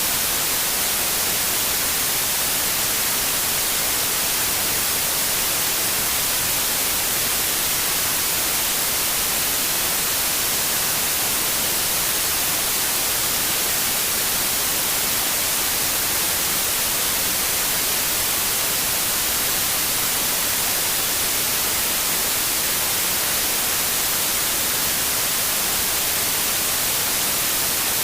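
Steady synthetic white noise: an even, unchanging hiss that is strongest in the high frequencies.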